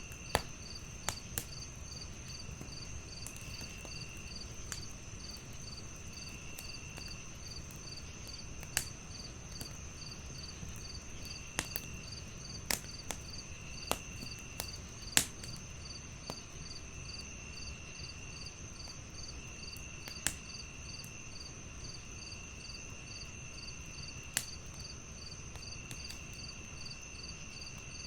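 Wood fire crackling, with sharp pops scattered through, over a chorus of crickets: a constant high trill, a chirp pulsing about twice a second, and a lower trill that comes in short spells.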